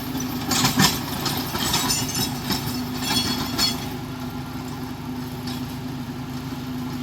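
John Deere tractor's diesel engine running steadily, with sharp clattering knocks over the first few seconds that then die away.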